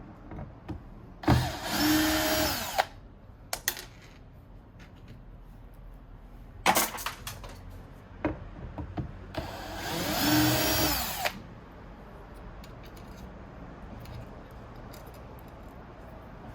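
Electric screwdriver whirring in two bursts of about a second and a half and two seconds, spinning up and winding down each time as it backs out small Torx screws. A few sharp clicks of handled parts and tools fall in between.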